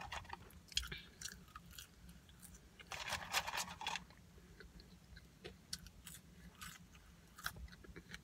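Close-up chewing of a mouthful of burger: irregular clicking mouth sounds, busiest about three to four seconds in.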